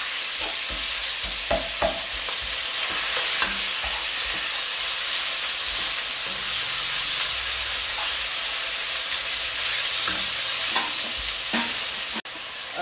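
Chopped chicken sizzling in hot oil in a nonstick wok as it is stirred, a steady frying hiss with a spatula scraping and tapping the pan now and then. Near the end the sizzle drops off suddenly and goes on a little quieter.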